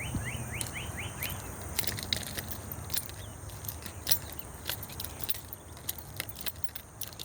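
Footsteps crunching on the gravel ballast of a railway track, irregular sharp clicks throughout. A bird gives a quick run of rising chirps in the first second or so, over a steady high-pitched hum.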